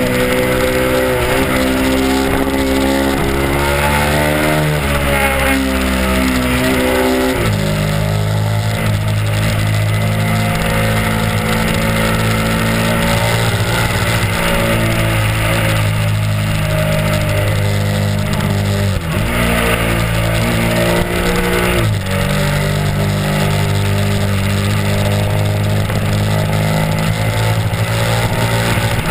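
Honda RC51's V-twin engine running under way on the road, its note rising and falling with the throttle. The pitch drops sharply about seven seconds in and dips twice more later on. A steady rush of wind noise runs underneath.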